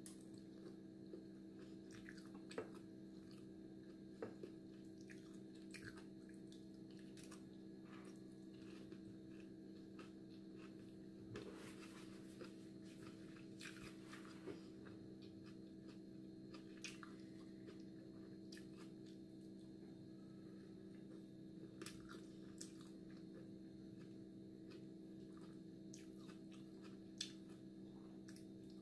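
Faint chewing and eating sounds of a person eating macaroni with wooden chopsticks, with scattered small clicks, over a steady low hum.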